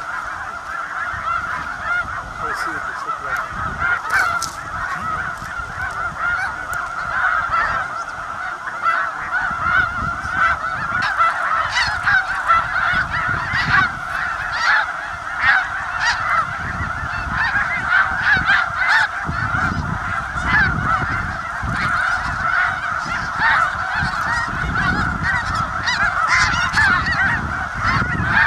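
Large flock of geese calling all at once: a dense, unbroken chorus of overlapping honks.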